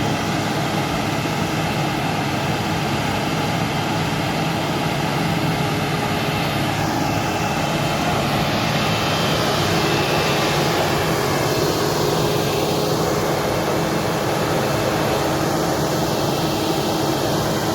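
Heavy truck's diesel engine in a steady, unbroken drone, labouring at low speed on a steep hairpin climb.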